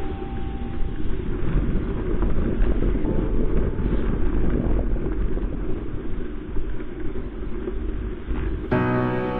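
Dull, steady rushing of wind and ride noise on an action camera's microphone while cycling. Background music comes in near the end.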